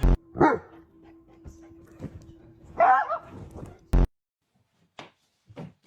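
A dog barks twice: a short bark just after the start and a longer bark about three seconds in. A sharp click follows about four seconds in.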